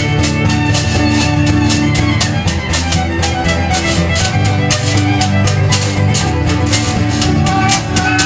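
Live folk band playing an instrumental passage: sustained bowed-string melody over guitar, bass and a steady quick percussion beat.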